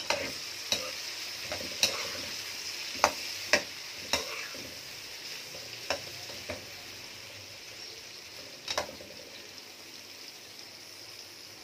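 Bitter gourd pieces sizzling as they fry in hot mustard oil, with a metal spatula stirring them and clicking against the metal pot about nine times, mostly in the first half. The sizzle eases a little toward the end.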